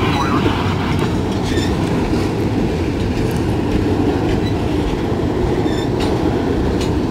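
Double-stack intermodal train's container-laden well cars rolling past at close range: a steady heavy rumble of steel wheels on rail, with scattered clicks and clacks.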